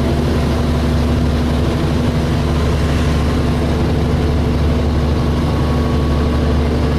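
DAF SB220 single-decker bus's diesel engine heard from inside the bus, running steadily under way with a deep hum.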